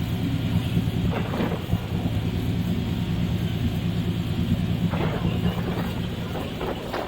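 A boat's engine running steadily, a constant low drone with no change in speed.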